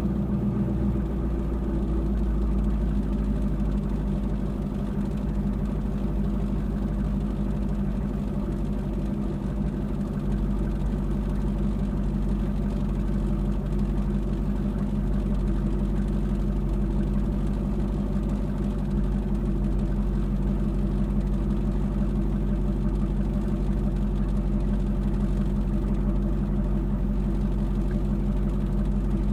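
Chevrolet Camaro engine idling steadily with the car at a standstill.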